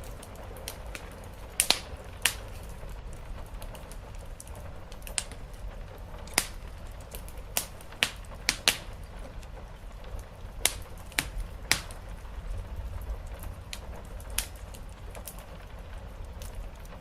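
Wood fire crackling, with a dozen or so sharp pops at irregular intervals over a steady low rumble and a soft, even hiss of rain.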